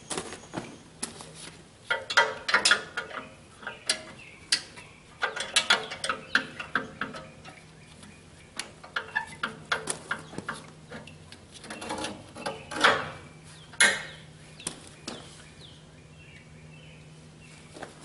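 Hand ratchet clicking in short bunches, with scattered metal clinks, as the bolts holding the radiator shroud are worked loose.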